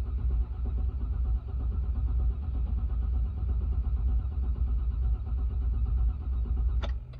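2002 GMC Yukon's V8 being cranked over by the starter motor without firing, a steady rough churning that does not catch: a crank-but-no-start condition. The cranking stops with a short click near the end.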